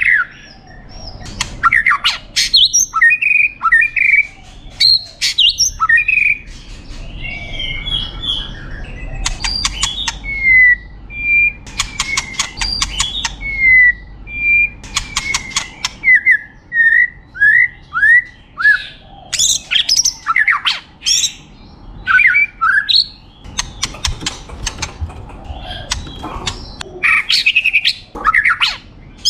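White-rumped shama (murai batu) singing a long, varied song of clear whistled notes, many slurred, mixed with harsh rattling chatter. Near the middle comes a run of several quick downward-slurred whistles.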